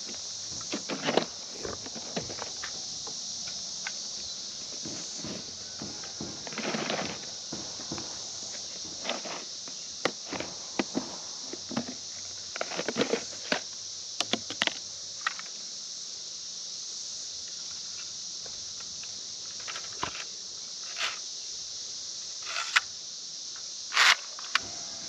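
Steady, high drone of cicadas, with irregular sharp knocks and clicks from hand work on a wooden wall frame, loudest near the end.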